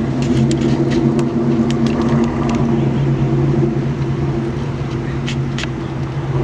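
A truck engine running steadily at idle, a low even drone, with a few short clicks over it.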